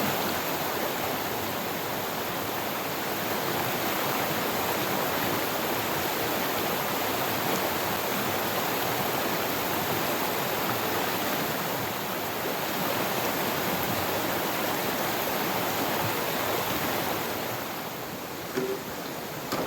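Steady rush of flowing river water. It drops somewhat in level near the end, with a brief short knock just before the end.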